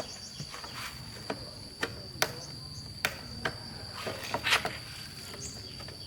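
A steady high-pitched insect trill, like crickets, runs under a dozen or so irregular sharp clicks and knocks, which bunch together just past the middle.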